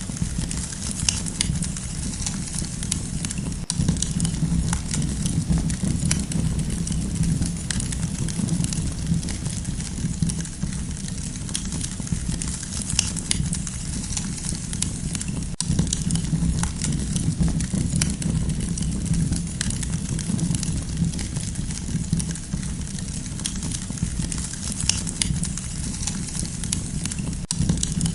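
Campfire crackling: irregular sharp pops and snaps scattered over a steady low rumble of burning wood.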